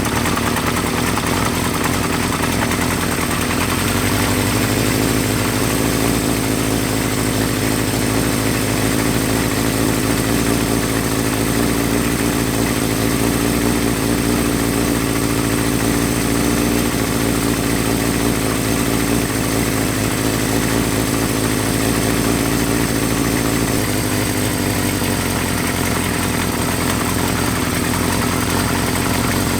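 1975 Honda CB550's air-cooled inline-four engine idling steadily, its idle speed shifting slightly about four seconds in and again near the end. It sounds pretty good.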